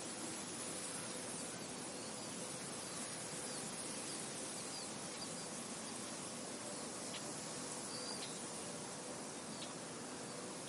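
Steady wind noise in an open field, with a few brief high bird chirps scattered through it.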